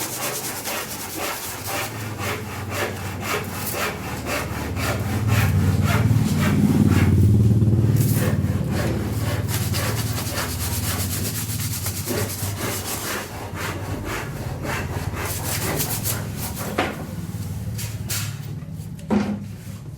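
Hand-sanding the edge of a plywood board with sandpaper: steady back-and-forth rubbing strokes. A low rumble swells in the middle and fades again.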